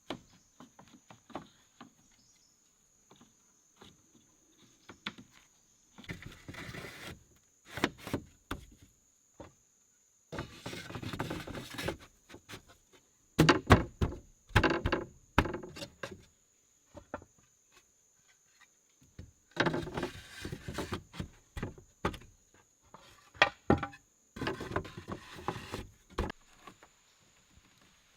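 Bouts of rustling and scraping broken by sharp knocks and snaps, the sound of wood and brush being handled at close range, coming in irregular spells of a second or two. A faint, steady, high insect whine runs underneath.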